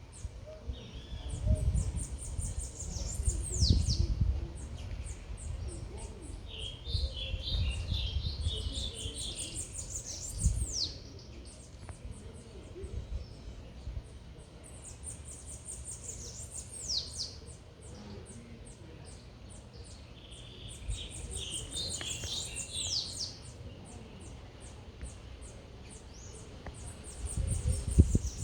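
A bird singing the same high phrase over and over: a quick run of chips ending in a falling whistle. A lower, busier chatter comes in twice. A low rumble runs underneath, loudest in the first few seconds and near the end.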